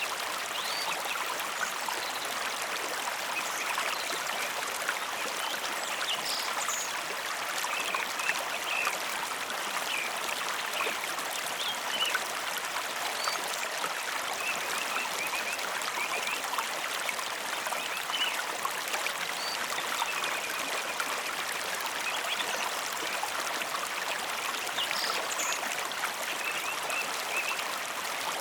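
Mountain river flowing: a steady rush and trickle of water.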